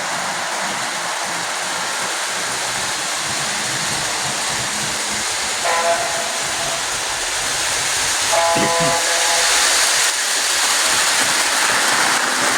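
Lionel model trains running on the layout with a steady rushing noise, and the train's whistle sounding two short blasts, the first about six seconds in and the second about two and a half seconds later.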